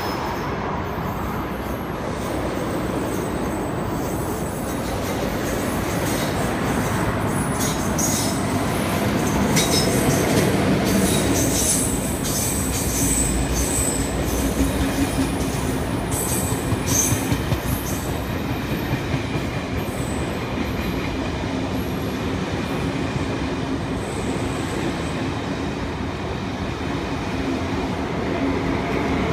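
MTR KTT push-pull train of double-deck coaches with its Adtranz/SLM Re 460 (Lok2000) electric locomotive passing close by. A steady rumble of wheels on rail builds to its loudest about ten seconds in, with clicks over the rail joints and a few brief high wheel squeals.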